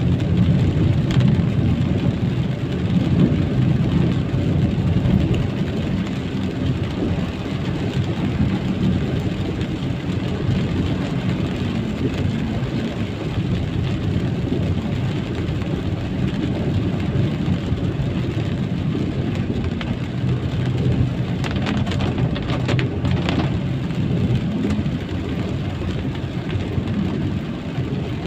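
Steady low rumble of a vehicle driving along a wet road in the rain, with a hiss of rain and tyre spray. A few faint ticks come about three-quarters of the way through.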